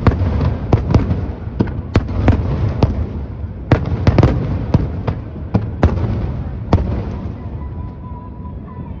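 Aerial fireworks bursting: a rapid series of sharp bangs over a low, continuous rumble. The bangs thin out near the end.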